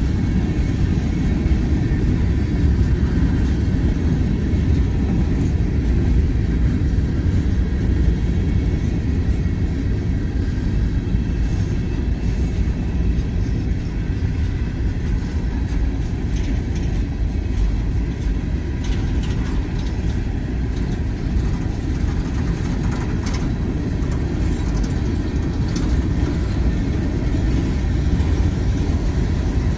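Freight train of gravel hopper cars rolling past close by: a steady low rumble of steel wheels on the rails, with a few faint clicks from the wheels and trucks.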